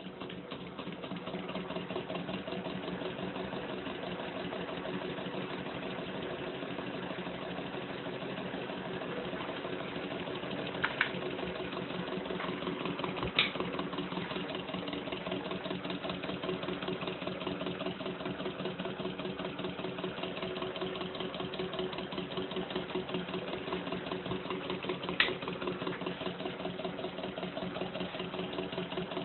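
Stirling engine running at a steady speed, a fast, even mechanical pulsing with a hum, growing louder over the first two seconds. Three brief sharp clicks stand out along the way.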